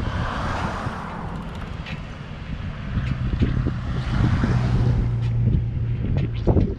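Wind buffeting the microphone while riding a bicycle, a gusty rumble. A steady low hum joins about three seconds in and stops shortly before the end.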